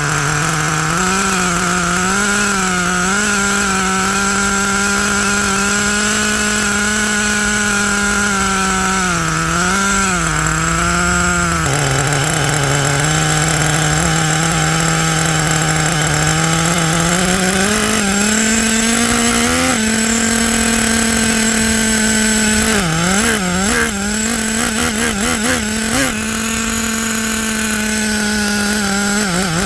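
Traxxas T-Maxx's TRX 3.3 two-stroke nitro engine running steadily, its pitch drifting up and down, stepping higher about twenty seconds in, with a few quick wobbles in pitch near the end.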